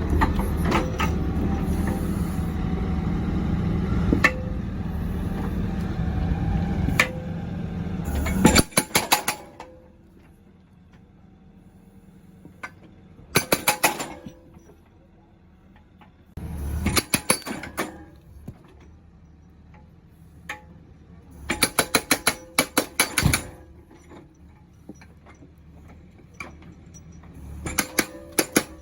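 Excavator engine running loudly for the first eight or so seconds, then several short bursts of rapid sharp knocking, each lasting about a second or two, with quieter stretches between.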